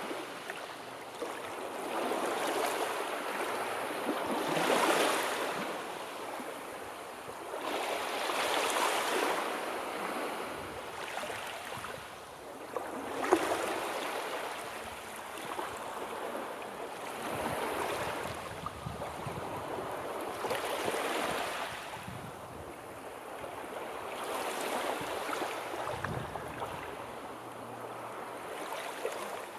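Sea waves washing in and drawing back in slow swells, one every four seconds or so, with a sharper splash about thirteen seconds in.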